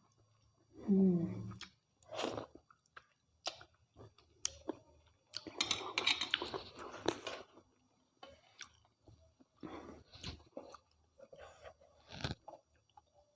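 Close-miked eating of mutton curry and rice: irregular wet chewing, smacking and clicking mouth sounds. A denser, longer stretch of chewing comes in the middle, and a short voiced hum comes about a second in.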